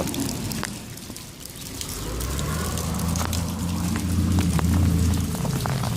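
A motor vehicle's engine going by, a low hum that builds from about two seconds in and eases off near the end, with scattered light clicks.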